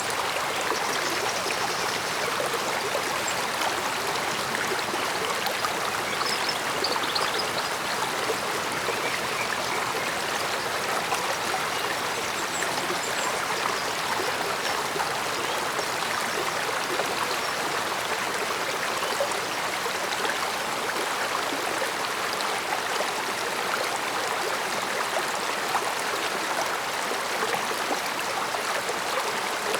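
A stream flowing, a steady, unbroken rush and trickle of running water.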